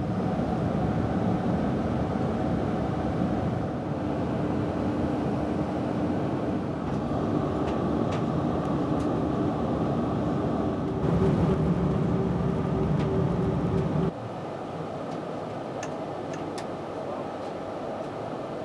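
Passenger train running, heard from inside the carriage: a steady rumble with a faint hum. About 14 s in, it suddenly becomes quieter and the hum stops.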